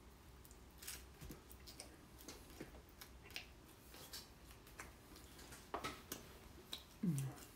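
Faint chewing with scattered small mouth clicks and smacks from a person eating a slice of French toast dessert pizza. A brief low falling hum from the eater near the end.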